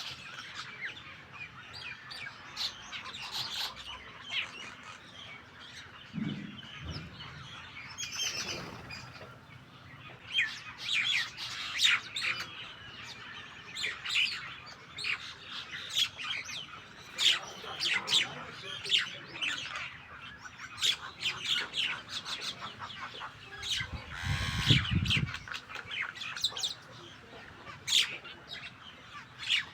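Starlings and mynas calling: many short chirps and harsh squawks overlapping in a busy stream, with a brief low rumble about three-quarters of the way through.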